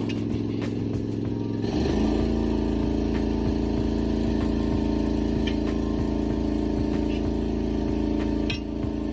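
Engine running steadily. Its tone steps up and gets louder about two seconds in, then drops back near the end.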